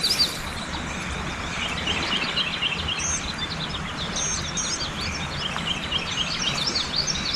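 Birds chirping: many quick, high, repeated notes throughout, over a steady outdoor background hiss.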